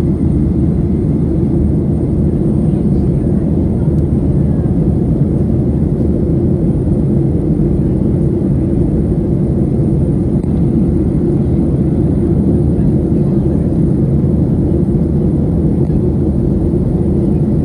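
Boeing 737-800 airliner's jet engines running with a steady low rumble.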